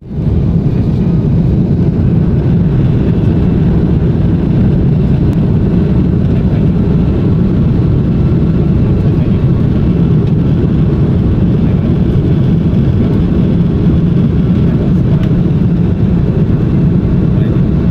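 Airbus A330 cabin noise during takeoff: a loud, steady, deep rumble of the jet engines and airflow, heard from inside the passenger cabin.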